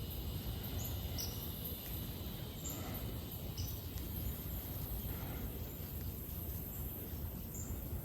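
Outdoor creek-side ambience: a steady low rumble of wind on the microphone under a faint high, even hiss, with a few short, faint high chirps from birds every second or two.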